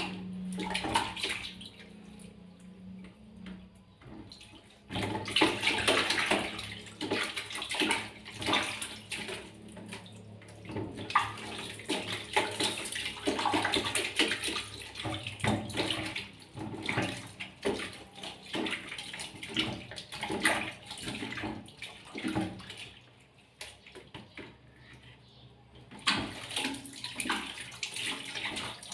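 Water splashing and sloshing while a pet sugar glider is bathed. The splashes come irregularly, with a quieter spell of a few seconds near the end.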